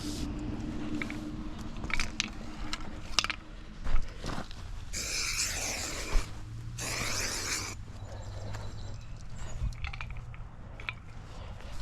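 Aerosol marking-paint can spraying in two hissing bursts about five and seven seconds in, over a low steady hum of idling machinery. A few sharp clicks and crunches come about two to four seconds in.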